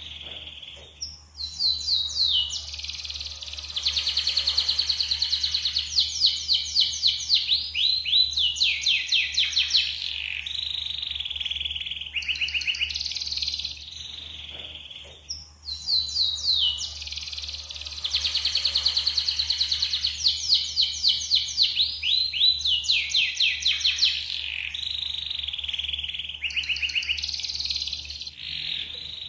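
Yellow canary singing long, high-pitched song bouts of rapid trills and rolls, the same sequence of phrases heard twice.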